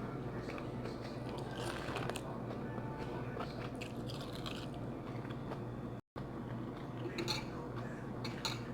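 Close-up eating sounds: chewing and biting, with a few short crackly clicks, over a steady low hum.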